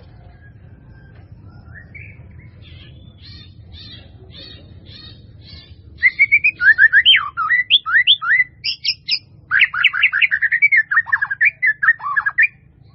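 Bird song: a faint series of evenly spaced high notes, then from about halfway a loud, fast run of chirps and warbled notes sliding up and down in pitch, which stops shortly before the end.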